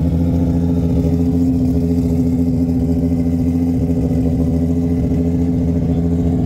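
Nissan S14 Formula Drift car's engine idling steadily.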